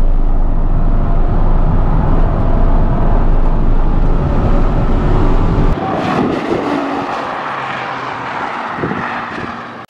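A VE Commodore SS's V8 running hard at track speed, heard inside the cabin with heavy low engine drone and road noise. About six seconds in this gives way to a thinner, more distant sound of the car out on the circuit.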